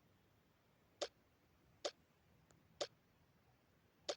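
Four short, sharp clicks, roughly a second apart and not quite evenly spaced, with near silence between them.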